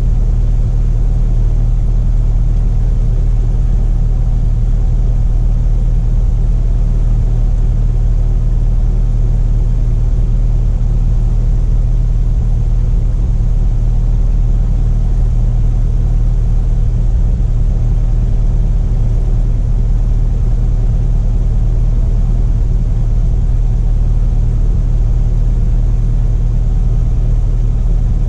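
Inside the cabin of a 1973 Cessna Cardinal RG, its four-cylinder Lycoming engine and propeller drone steadily and loudly at constant power, with no change in pitch.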